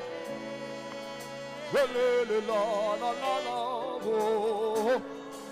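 Gospel worship music: held keyboard chords, joined about two seconds in by a voice singing long notes with vibrato.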